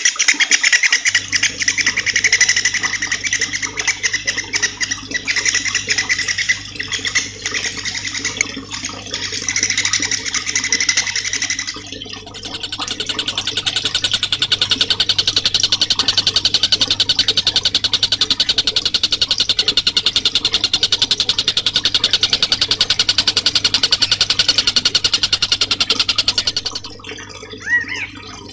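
Songbird masteran recording: fast, high buzzing trills, switching about twelve seconds in to a denser, faster trill, then short rising-and-falling chirps near the end, over a steady low hum.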